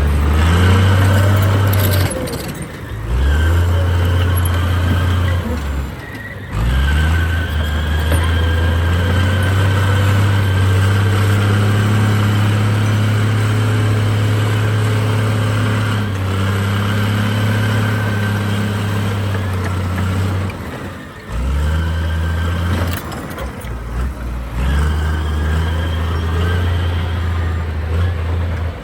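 Heavy diesel engine of earthmoving machinery running steadily, with a deep hum and some rising and falling in pitch. It drops out abruptly several times, at about two seconds, six seconds and twenty-one seconds in.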